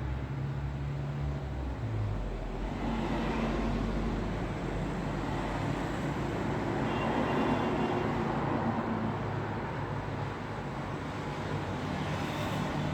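Road traffic: a steady rush of passing vehicles' tyres and engines, with a low engine hum, swelling a little as a vehicle goes by around the middle.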